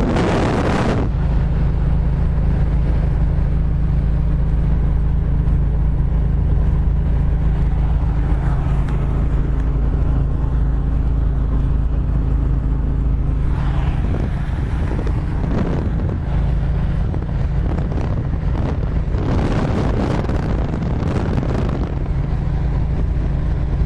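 Old car's engine droning steadily as heard from inside the cabin while driving, with wind buffeting the microphone, swelling twice in the second half.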